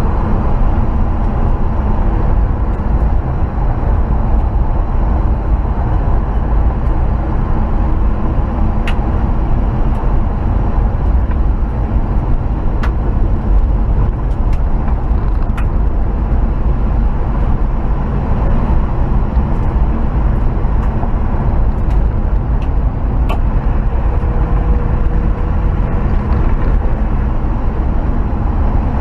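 A 1968 Chevrolet C20 pickup driving along, its engine running steadily under the road and wind noise, with a few faint ticks.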